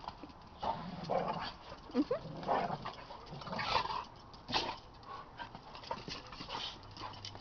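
Dogs play-fighting: irregular short dog vocal noises and scuffles, with a brief whine about two seconds in.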